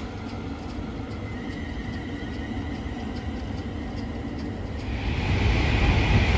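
London Northwestern Railway Class 350 electric multiple unit running along the tracks: a steady rumble with a faint whine, growing louder and hissier about five seconds in.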